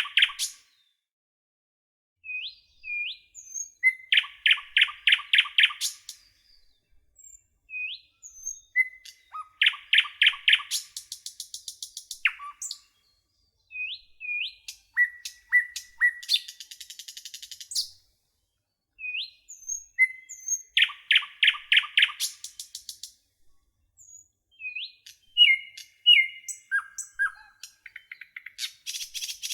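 A songbird singing in repeated phrases, each a short note followed by a fast trill of about seven notes, with higher, thinner chirps and brief pauses between phrases.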